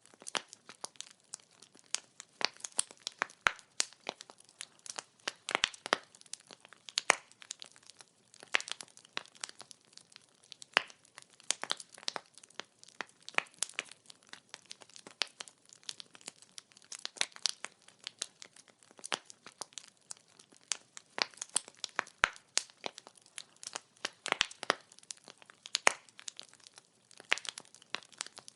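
Wood fire crackling: irregular sharp pops and snaps of burning firewood, several a second, over a faint steady hiss.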